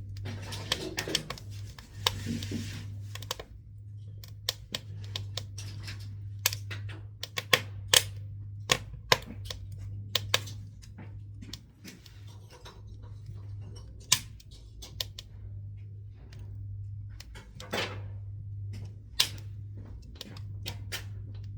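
Scrap pine wood burning in a wood stove, crackling with irregular sharp pops and several louder snaps, over a steady low hum.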